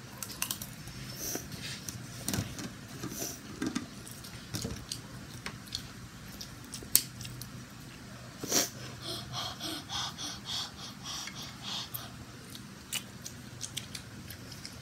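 A child chewing a mouthful of fried rice close to the microphone, with breathing noises and a run of quick mouth smacks about nine to eleven seconds in. A few sharp clicks of a metal fork on the plate sound throughout, the loudest about seven seconds in.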